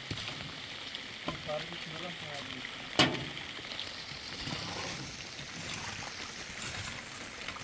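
Steady hiss of heavy rain, with one sharp knock about three seconds in.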